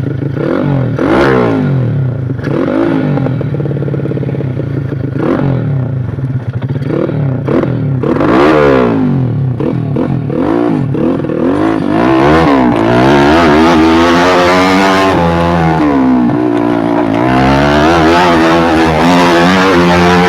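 Modified Yamaha Jupiter Z moped's 130cc single-cylinder four-stroke engine revving up and down repeatedly. About twelve seconds in, it is held at higher, louder revs.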